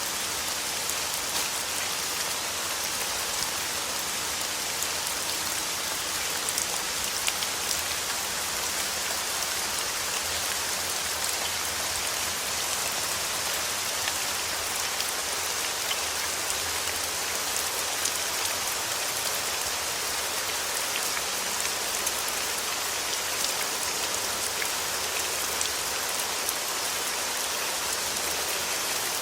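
Steady rain falling on a surface, with the ticks of single drops scattered through an even hiss.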